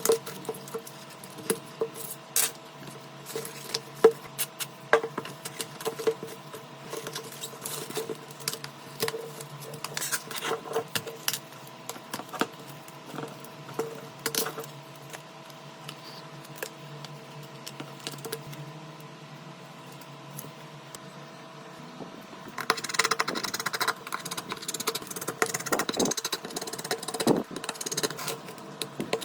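Small hand tools and phone parts clicking, tapping and scraping during a smartphone repair, over a steady low hum. About three-quarters of the way through, a denser, hissier stretch of scraping begins.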